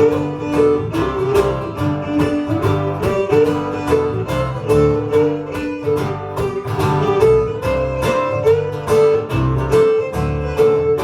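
Folk band playing an instrumental break: a fiddle-like melody over strummed acoustic guitar and a steady bass beat.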